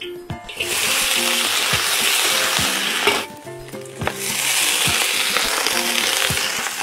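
Ingredients sizzling loudly in hot oil in a wok as they are stir-fried with a metal spatula. The sizzle comes in two spells: the first starts about half a second in and stops about three seconds in, and the second starts about a second later, as more ingredients go into the wok.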